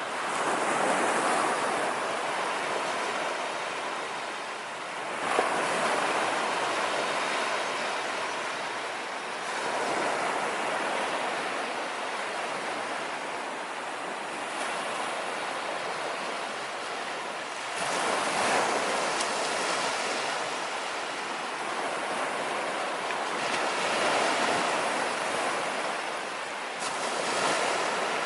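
Sea waves breaking and washing up a beach: a steady rushing surf that swells with each breaking wave every four to five seconds, with some wind on the microphone.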